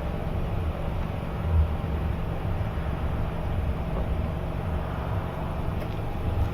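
Semi-truck on the move: a steady low engine drone under an even wash of road noise.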